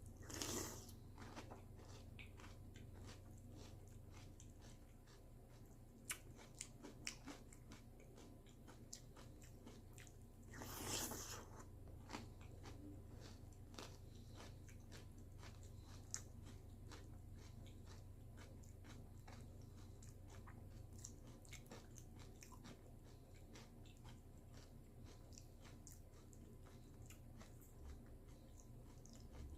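A person chewing crunchy cereal close to the microphone: a run of small crisp crunches and clicks, with two louder crunching bursts, one right at the start and one about eleven seconds in.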